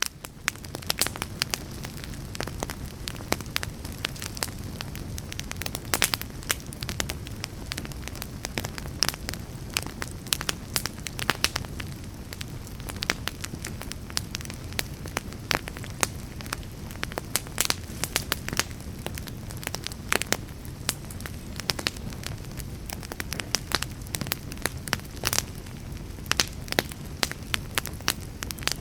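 Wood fire burning, with frequent sharp crackles and pops at irregular intervals over a steady low rumble of flames.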